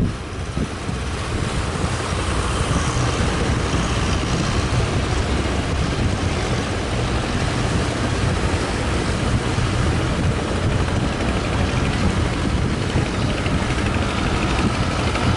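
A fishing boat's engine running steadily, under a constant rush of strong wind buffeting the microphone.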